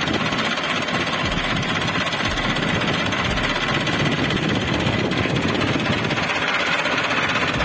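An engine running steadily close by, a dense rapid rattle that holds level throughout.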